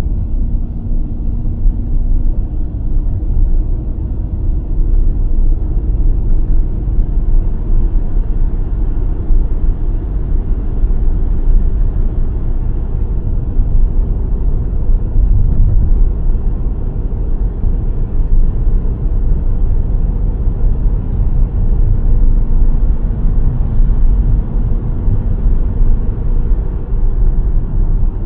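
Car driving along a road: a steady low rumble of engine and tyre noise, with a faint engine hum that comes in at the start and again near the end.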